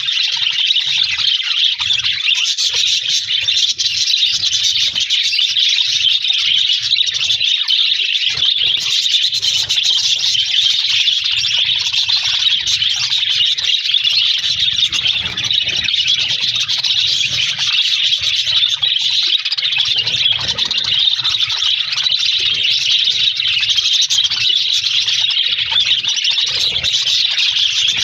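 A flock of budgerigars chattering and warbling all at once, a dense, continuous twittering of many birds.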